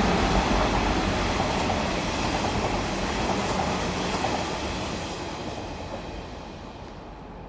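Kintetsu Nara Line train passing through a station at speed: wheel-on-rail rumble and running noise, steadily fading as it moves away.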